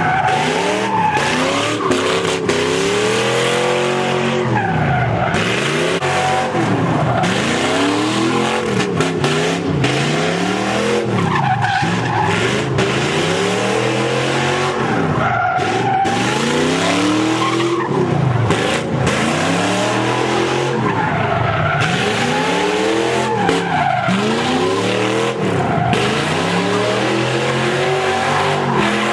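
Ford Mustang doing donuts or burnouts: a loud engine at high revs, its pitch swinging down and back up about every two seconds, over continuous tire screech.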